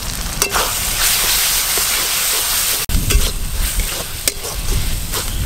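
Onion-tomato masala with cumin paste sizzling as it fries in a metal karai, while a spatula stirs and scrapes it, with a few sharp clicks of the spatula on the pan.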